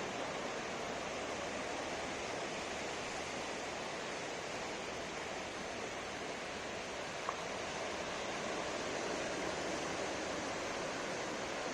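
Ocean surf washing steadily onto the shore, with gentle swells in level. There is one brief faint click about seven seconds in.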